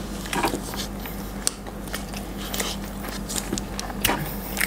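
Close-miked chewing and biting of food, with irregular small clicking mouth sounds scattered through, over a faint low steady hum.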